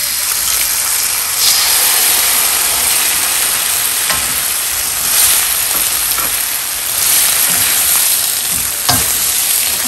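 Chili sauce poured into a hot wok of onions, capsicum and dried red chillies, sizzling loudly in the oil. The sizzle swells as the sauce goes in, then keeps on while a wooden spatula stirs, with a few knocks of the spatula against the wok.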